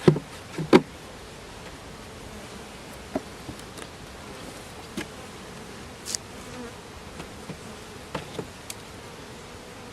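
Honey bees buzzing around an open hive, a steady hum. A few sharp knocks and clicks sound over it, the loudest two right at the start and smaller ones scattered after.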